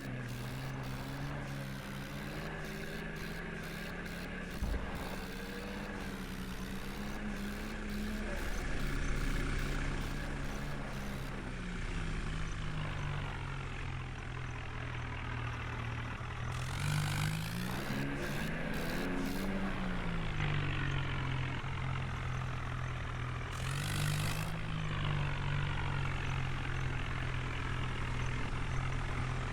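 New Holland tractor's diesel engine running steadily while pulling a loaded trolley. Its engine speed rises and falls a little over halfway through, and again briefly later.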